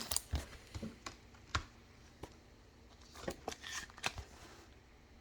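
Football trading cards being handled and slid over one another as a pack is gone through: short clicks and rustles in the first second and a half, and again around three to four seconds in.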